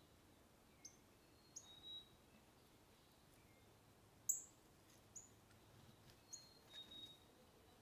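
Faint songbird chirps: a scattering of short, high, down-slurred notes with a few thin whistles between them, the loudest about four seconds in.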